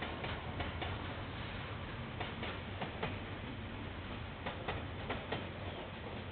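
Freight train of container wagons rolling past, its wheels clicking over the rail joints in pairs and small groups at uneven intervals over a steady low rumble.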